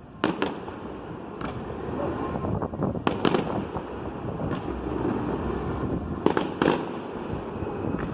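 Fireworks display going off: sharp bangs in pairs, near the start, about three seconds in and about six and a half seconds in, over continuous noise between them.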